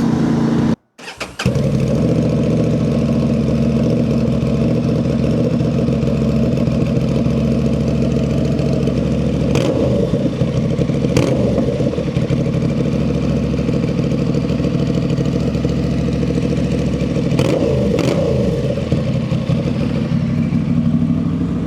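2025 Honda Transalp's 755 cc parallel-twin engine running through a straight pipe, with the stock muffler removed entirely. It idles steadily, with a few short changes in pitch near the middle and again near the end.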